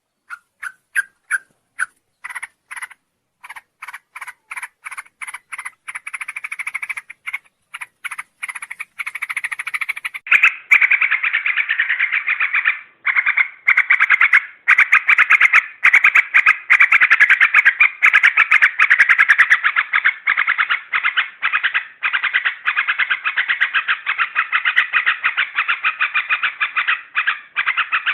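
Yellow-vented bulbul (trucukan) lure recording: rapidly repeated short chattering calls, spaced out at first, then growing denser and louder into a continuous chatter from about ten seconds in.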